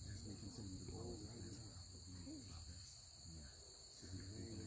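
Steady, high-pitched chorus of insects trilling without a break, with faint voices murmuring beneath it.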